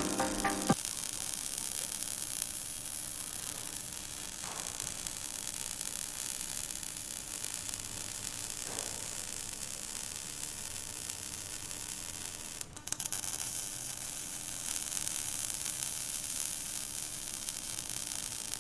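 Stick welding arc from a 7016 electrode, a steady crackling hiss as the bead is run, with a brief break about two-thirds of the way through.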